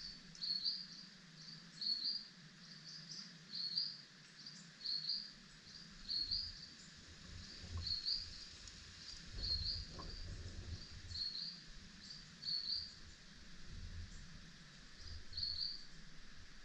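A bird repeating a short, high, upward-flicking chirp about once a second, with a low rumbling through the middle stretch.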